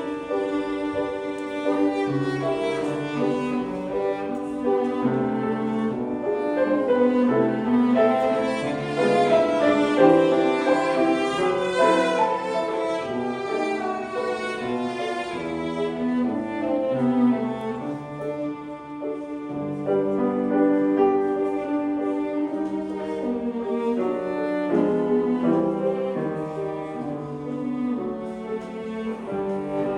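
A cello plays a slow, singing melody over piano accompaniment.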